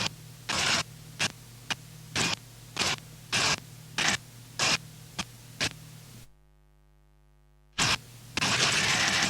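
Harsh noise music: short bursts of static-like noise, a little under two a second, over a steady hum. About six seconds in it drops out to a faint buzzing tone for about a second and a half, then comes back as longer, sustained blasts of noise.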